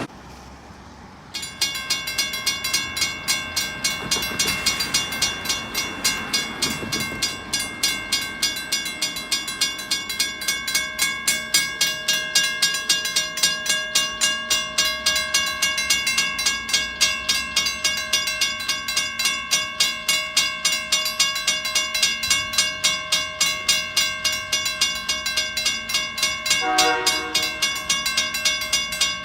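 Western Railroad Supply (WRRS) mechanical railroad crossing bell, starting about a second and a half in and then ringing steadily, its clapper striking the gong about four times a second. A brief lower horn-like tone sounds under it near the end.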